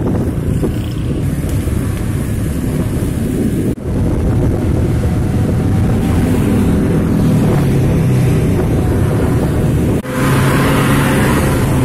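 A heavy road vehicle's engine running, with road and wind noise. The sound breaks off sharply for an instant twice, about four seconds in and near the end.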